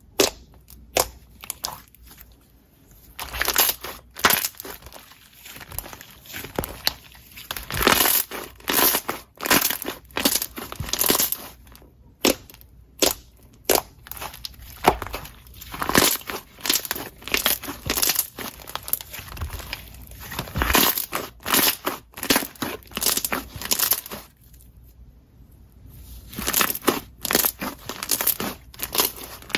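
Hands squeezing and pressing slime close to the microphone, making dense bursts of crackling, crunching and clicking. The bursts come in irregular waves, with a pause of about two seconds near the end.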